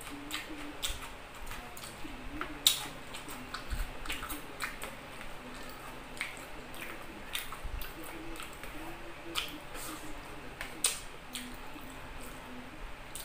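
Close-miked mukbang eating sounds: wet chewing and lip-smacking as a man eats chicken and rice with his hands, with irregular mouth clicks and one sharp smack about two and a half seconds in.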